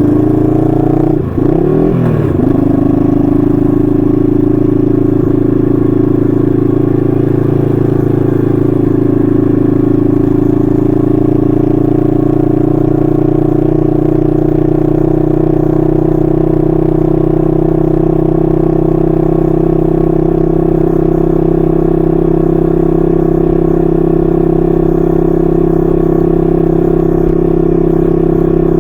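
A 1968 Honda Dream CL250's 250cc parallel-twin engine running through its stock mufflers while the bike is ridden. The engine note rises, then drops abruptly about a second in as the bike shifts up a gear. It then climbs slowly and settles into a steady cruising drone.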